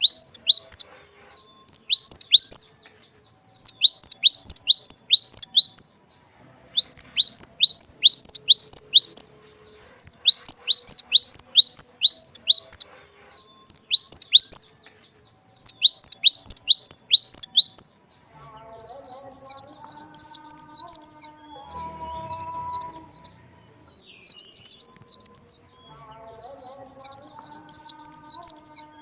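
Cinereous tit (glatik batu) singing: bursts of rapid, repeated high sharp notes in phrases of one to two seconds with short pauses between them. About two-thirds of the way through, the notes change to a rounder, looping form, with faint lower chirps beneath.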